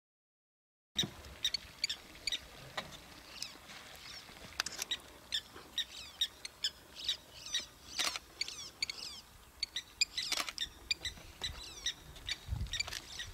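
Wild birds chirping and calling: quick, high, repeated short notes and sweeping whistles, starting about a second in, with a few sharper, louder calls in the middle.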